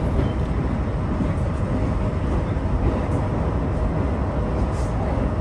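Steady low rumble of a moving train's wheels and running gear on the rails, heard from inside the passenger car.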